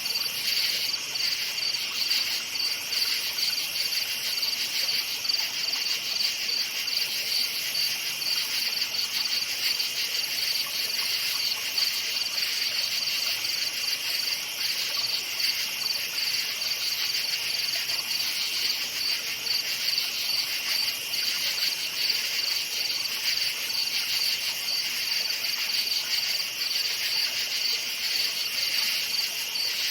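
A chorus of crickets chirping without pause, a fast pulsing trill at two high pitches over a high hiss.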